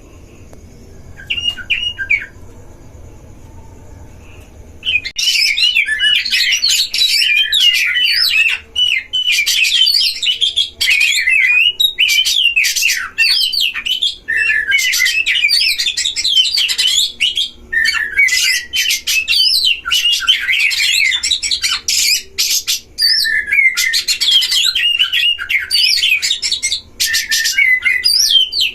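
Oriental magpie-robins (kacer) singing in rapid, varied whistled phrases, the aggressive duelling song used to provoke other magpie-robins. A short phrase comes about a second in, then from about five seconds on the song is loud and almost continuous, with only brief pauses.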